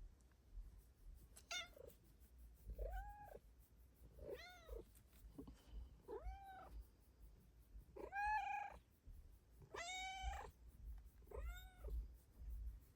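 Bengal cat meowing about seven times, each meow a short call that rises and falls in pitch, spaced a second or two apart, the two near the end of the run the loudest.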